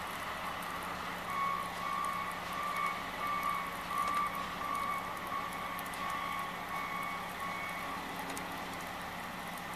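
Vehicle backup alarm beeping about twice a second, starting about a second in and stopping near the end, over the steady running of an engine.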